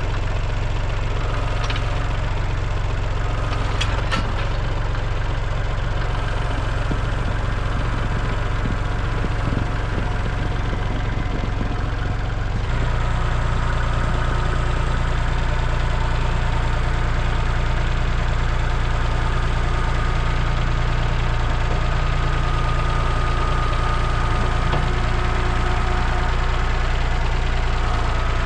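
Kubota L3301 tractor's three-cylinder diesel engine idling steadily. A few light knocks come about four seconds in. About halfway through, the engine note steps up to a slightly higher pitch and gets a little louder.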